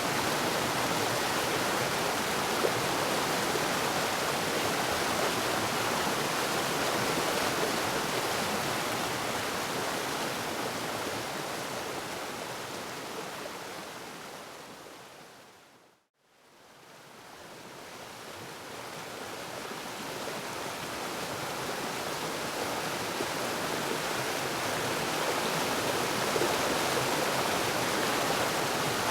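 Waterfall rushing as an even, steady roar of water, which fades gradually to silence about halfway through and then fades back in.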